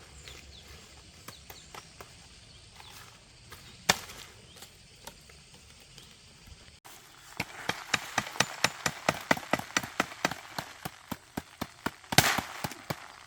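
Quiet at first with an occasional tap and one sharp knock, then from about halfway a quick, uneven series of sharp knocks, several a second, with a louder crack near the end.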